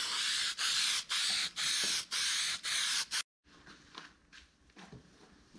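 Aerosol spray adhesive hissing from a can in a quick run of short bursts, about two a second, stopping abruptly a little after three seconds in; faint handling noises follow.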